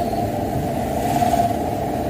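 Diesel engine of a Mitsubishi Canter dump truck running steadily on the road while hauling a heavy load of wet sand, a continuous low rumble with road noise.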